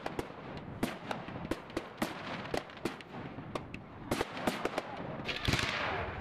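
Fireworks display: a rapid, irregular string of sharp bangs and crackles from bursting aerial shells, with a louder hissing rush about five seconds in.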